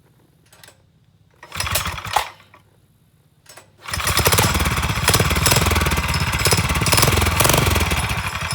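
Predator 301cc single-cylinder engine on a dirt bike idling low, blipped once briefly, then held at higher revs for several seconds from about four seconds in.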